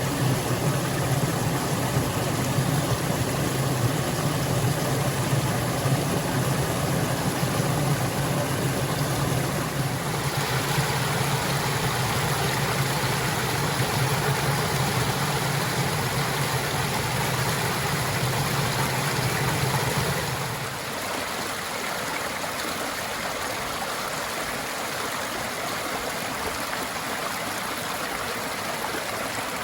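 Flowing stream water rushing steadily, with no tune or voice. The water sound shifts abruptly in character about a third of the way in, and drops to a lighter, less rumbling flow about two-thirds of the way in.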